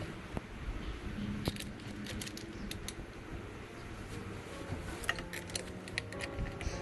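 Scattered small clicks and taps of hand work on plastic drain fittings under a sink, growing busier about two-thirds of the way in.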